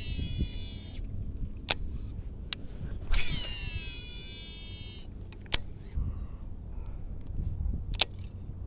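Shimano DC baitcasting reel whining twice as the spool spins out on a cast, a high multi-tone whine that slides down in pitch and stops sharply. A few sharp clicks and low wind noise on the microphone are also heard.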